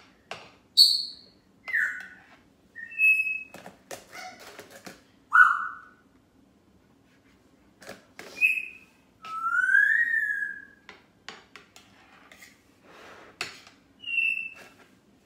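A pet bird whistling and chirping: a string of short, clear whistles, several sliding up or down, with a longer rising-and-falling whistle about ten seconds in. Light clicks of a spatula against the topping tub and pan come between the calls.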